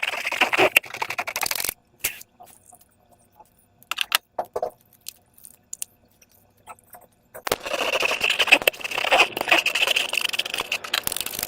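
Slime and rubber balloons being worked by hand: crackling, scraping noise for the first couple of seconds and again from about seven and a half seconds in, with scattered clicks in between.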